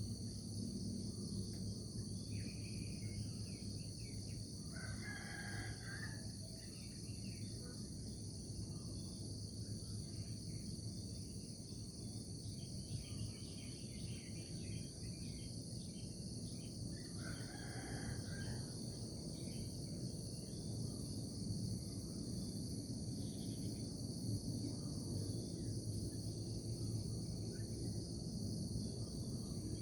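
Steady, pulsing chorus of crickets over a low, even background rumble. A rooster crows about five seconds in, again around seventeen seconds, and starts another crow right at the end.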